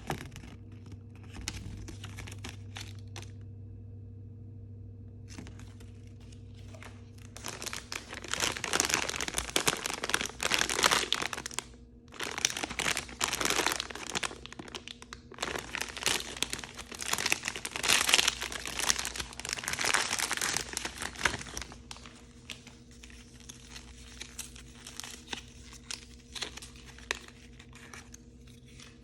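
Plastic blind-bag packaging being handled, crinkled and torn open by hand. It starts with faint scattered rustles, turns to dense, louder crinkling and tearing for about fourteen seconds from roughly a quarter of the way in, then eases back to soft rustling.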